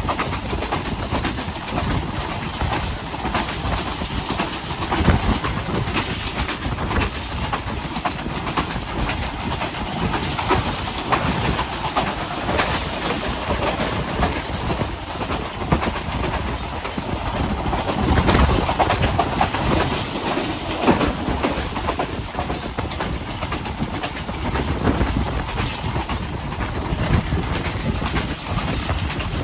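Passenger train running at speed, its wheels clattering and knocking over the rails in a steady noisy rumble.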